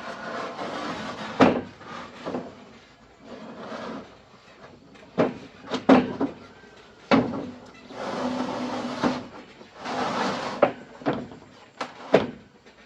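A run of sharp, irregular knocks, about ten of them, with stretches of scraping in between: hand work on something hard and wooden.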